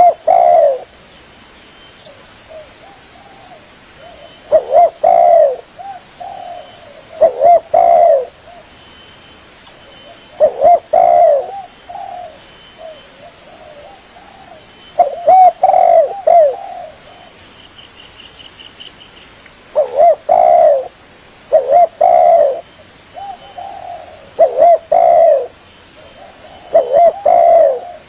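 Spotted dove cooing: a short phrase of a few low coos, repeated every two to three seconds.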